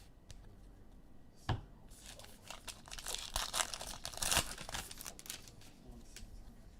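Foil trading-card pack being torn open and crinkled by hand: a sharp click, then a few seconds of crackling rustle that is loudest near the end.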